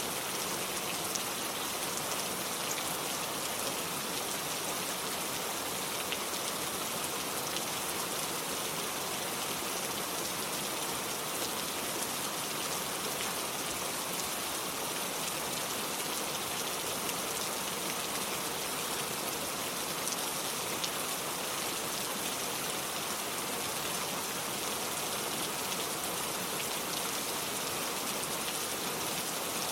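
Steady rain, an even hiss with faint drop ticks scattered through it.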